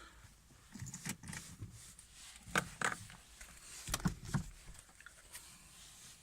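Scattered light clicks, knocks and rustles of someone moving about in a car's driver's seat, with the engine not yet running.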